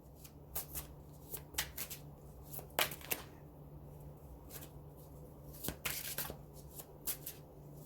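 Tarot cards being shuffled by hand: irregular soft riffles and taps of the cards, over a steady low hum.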